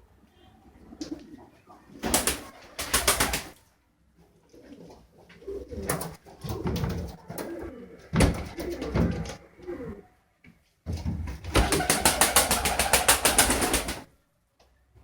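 Domestic pigeons cooing, with two loud spells of rapid fluttering: one a couple of seconds in, and a longer one near the end.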